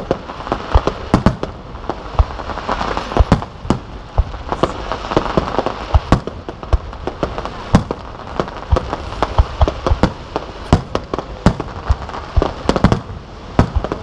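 Aerial firework shells launching and bursting in rapid succession: several sharp bangs a second over a continuous crackle.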